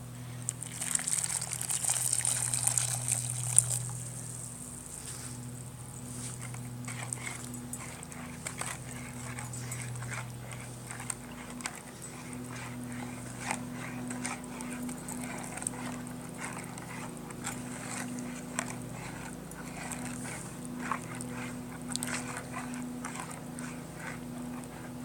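Hot water being poured: a hissing splash from about one to four seconds in. After it come scattered light clicks and taps over a steady low hum.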